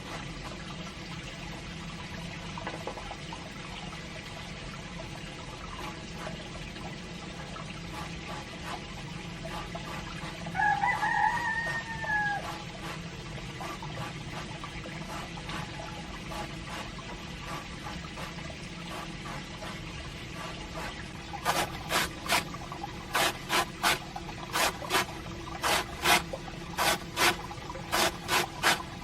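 A rooster crows once about ten seconds in, a single call that falls in pitch at its end, over a steady hiss of water. In the last seven seconds a run of sharp, irregular strokes sounds, about one to two a second.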